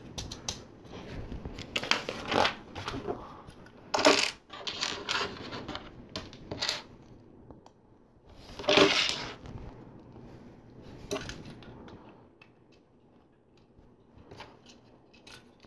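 LEGO plastic pieces being handled: irregular clicks and clatters as parts are picked up, pressed together and shifted, with louder bursts of plastic rattling about four and nine seconds in.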